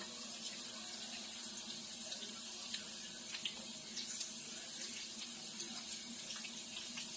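Fajita meat frying in a skillet: a steady, even sizzle with many small crackles and pops as it browns and chopped onions go in on top.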